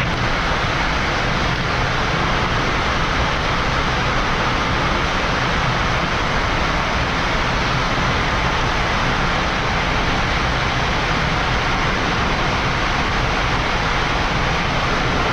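Steady rushing noise of airflow and engines on a Boeing 787-9 flight deck during the climb.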